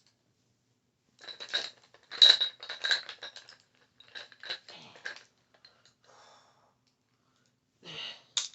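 Makeup brushes handled and tapped together, a quick run of small clicks and clinks with a light ringing tone over a few seconds, then another short clatter near the end.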